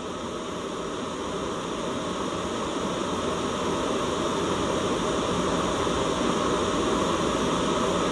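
Steady white-noise hiss, swelling gently in loudness over the first few seconds.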